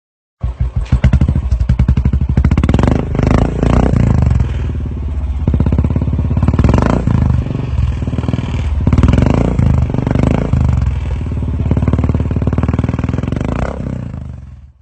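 Royal Enfield Bullet 350 single-cylinder engine running through an aftermarket exhaust silencer, with a pulsing beat. The throttle is blipped several times, so the note swells and falls.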